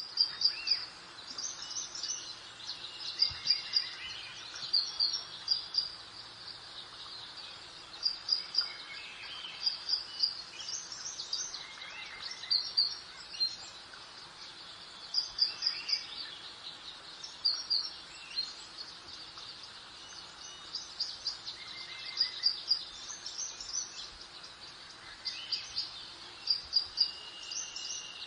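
Small songbirds chirping in short, high, repeated phrases every couple of seconds over a steady soft hiss of breeze.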